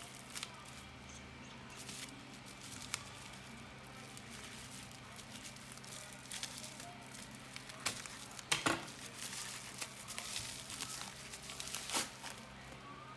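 Packaging crinkling and rustling as a box is unpacked by hand, with scattered clicks and a sharp knock about eight and a half seconds in.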